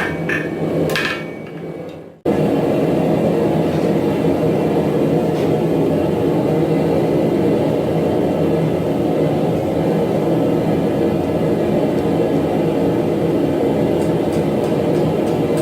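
Two hammer blows ringing on metal, the second about a second in, then the sound fades away. After an abrupt change, a steady loud rushing noise with no rhythm runs on.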